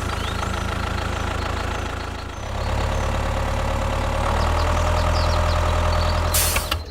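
A tractor engine running steadily at a low rumble. About two and a half seconds in it grows louder and its note changes. A short hiss comes just before it cuts off.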